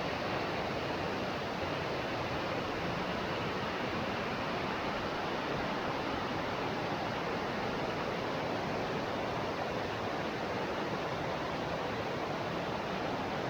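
Steady rush of flowing water from a rainforest stream or waterfall, an even hiss that does not change.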